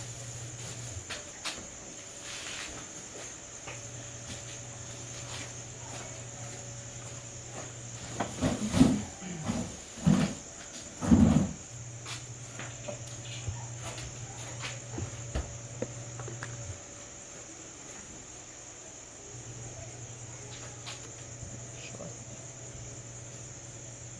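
Crickets chirring steadily in a high, unbroken drone, with a low hum that cuts out and comes back a few times.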